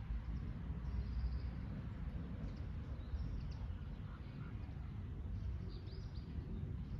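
Small birds giving short, high chirps a few times, over a steady low rumble of outdoor background noise.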